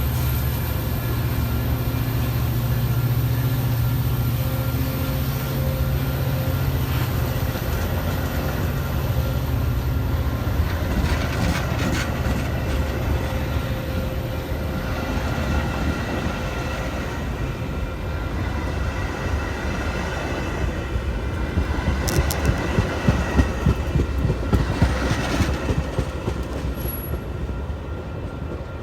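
Metra diesel commuter train running through the station: a deep locomotive engine rumble dominates at first and gives way after about ten seconds to the coaches' wheels. Near the end the wheels clack over rail joints, with a faint squeal, and the sound fades.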